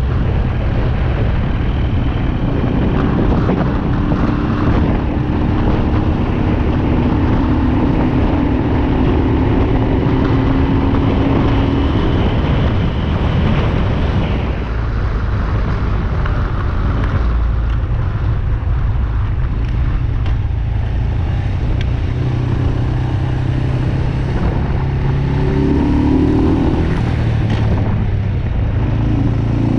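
BMW R27's 250 cc single-cylinder engine running under way at road speed, mixed with wind noise. The note holds steady through the first half, and near the end short rising notes come in as it picks up speed.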